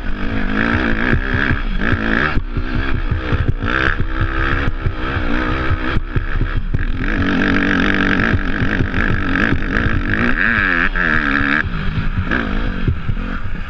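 Off-road motorcycle engine revving up and down as the bike is ridden, its pitch rising and falling repeatedly, with a sharp dip and climb about ten seconds in, over a steady rush of wind and tyre noise.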